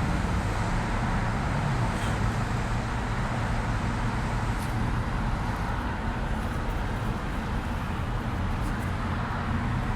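Steady low background rumble with a faint hum and hiss, unchanging throughout.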